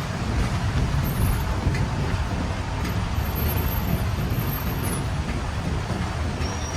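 Heavy rain on a city street, a steady hiss, under the low rumble of passing road traffic.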